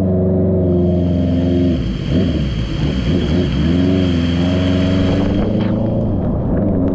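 Motorcycle engine running while riding, its pitch dropping and wavering about two seconds in, then holding steady again.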